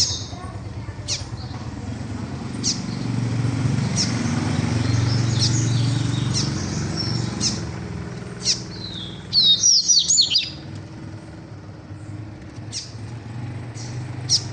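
Seedeaters (papa-capim and coleiro) calling with short, high, scattered chirps, breaking into a loud quick run of song about ten seconds in. A low rumble sits underneath in the first half.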